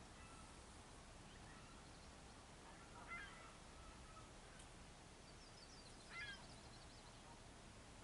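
Faint bird calls: two short, louder calls about three seconds in and again about six seconds in, with a quick high trill just before and over the second.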